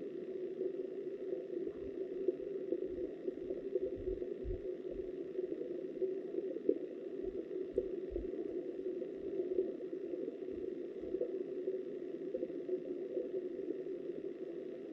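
Flowing river water heard through a submerged underwater camera: a steady, muffled rush, with scattered dull low thumps during the first two-thirds.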